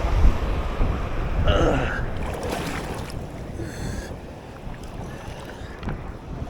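Wind buffeting the microphone over sea water around a small boat, the rumble easing after the first couple of seconds. A short cry is heard about a second and a half in.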